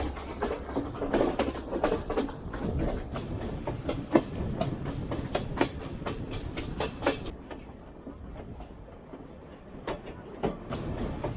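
Passenger train running on the rails: wheels clacking over rail joints over a low rumble. The sound turns quieter and duller for a few seconds past the middle.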